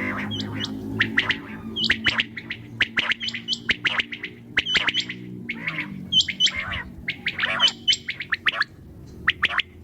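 Common quail calling: quick clusters of short, sharp, high chirps repeated over and over. A low steady hum lies under them in the first half and fades out about halfway through.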